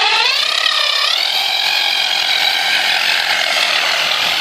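Traxxas Stampede 4x4 RC truck's electric motor and drivetrain whining at full throttle, the wheels spinning in place on a slick, icy surface to warm the tires. The whine rises over about the first second, then holds steady at high revs.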